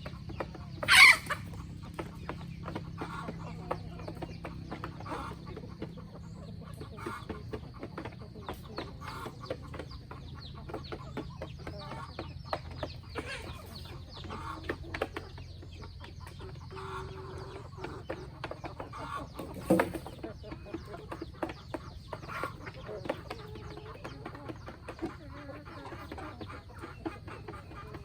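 Free-range chickens clucking, with many small clicks and ticks throughout. A loud squawk comes about a second in, and another short sharp sound about two-thirds of the way through.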